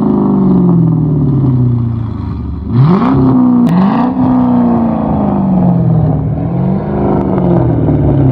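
Chrysler 300C's 5.7 HEMI V8 revving through a straight-pipe exhaust with the mid and rear mufflers deleted. The revs fall from a high pitch, jump up sharply twice about three seconds in, then wind slowly back down, with a smaller rise near the end.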